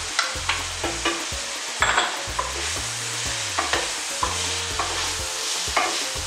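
Oxtail, onion and bell peppers sizzling as they fry in a stainless steel sauté pan, stirred with a wooden spoon that scrapes and taps against the pan every half second or so.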